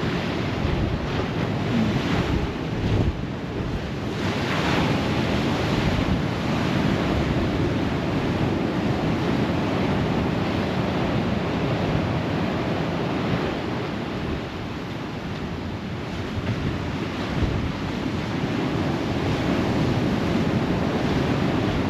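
Rough sea waves breaking and rushing on the shore in a strong gale, with wind buffeting the microphone. A steady, unbroken noise throughout.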